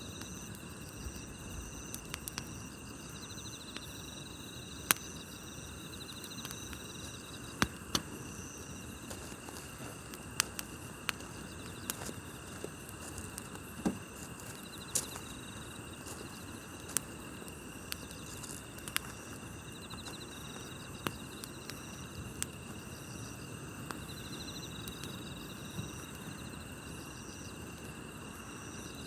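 Wood campfire crackling, with irregular sharp pops and snaps over a low hiss, against the steady chirping and pulsing trills of night insects such as crickets.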